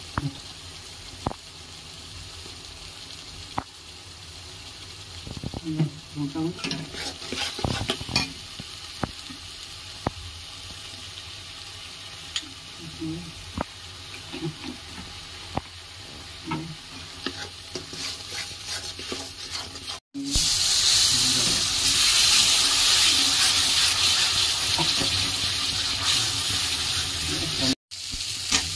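A ground chilli-and-tomato masala paste frying in a metal kadai. A steel spatula scrapes and clicks against the pan over a low sizzle. About twenty seconds in, a much louder, steady sizzle starts abruptly.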